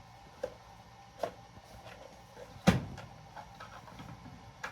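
Tools being handled: a few separate light clicks and knocks, the loudest about two and three-quarter seconds in.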